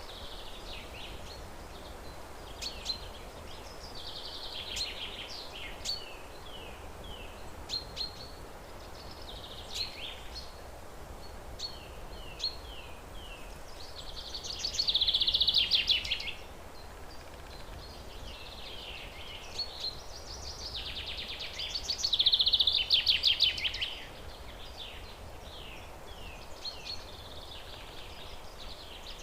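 Songbirds singing: sharp chips and short descending notes, broken by two loud, rapid trilled phrases, one about midway and one near three-quarters through, over a steady low background hiss.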